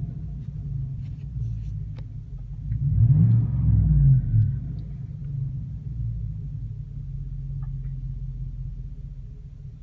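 2016 Chevrolet Silverado's 5.3 V8 through a Flowmaster Super 44 muffler, dropping back from a rev, then revved once about three seconds in and settling to a steady idle rumble.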